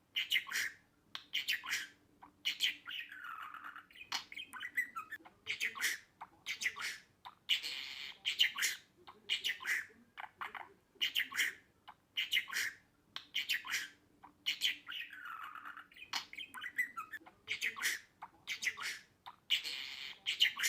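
Budgerigar chattering: rapid high chirps, squawks and warbled phrases with short pauses between them. The same stretch of calls repeats about every twelve seconds, as in a looped recording.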